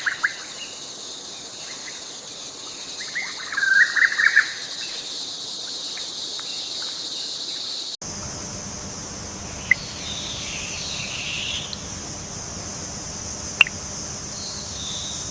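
Outdoor nature ambience: a steady high insect drone with scattered bird chirps, the loudest cluster about three to four seconds in. It changes abruptly to a similar insect-and-bird background about halfway, with a couple of sharp clicks.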